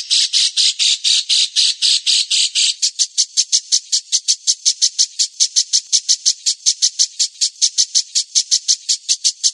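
A bird's harsh, rasping call note repeated rapidly and evenly, about six times a second, in one long unbroken string that quickens and rises slightly about three seconds in.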